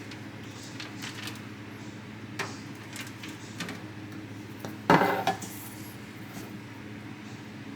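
Dishes and utensils clinking and knocking, a few light clicks and one loud clatter about five seconds in, over a steady low hum.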